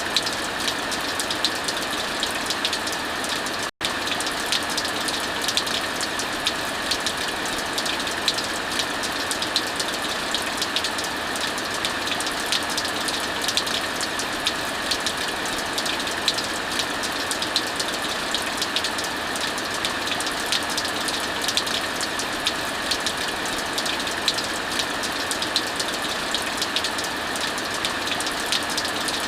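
Heavy rain falling steadily, mixed with a fireplace crackling: a constant even rush dotted with dense small crackles and ticks. The sound cuts out for an instant about four seconds in.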